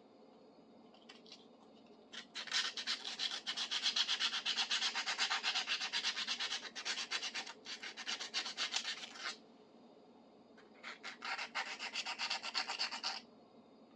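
Sandpaper rubbed rapidly back and forth by hand on the steel of a large adjustable wrench, scuffing off a rough patch. It comes in two spells: a long one starting about two seconds in, and a shorter one near the end.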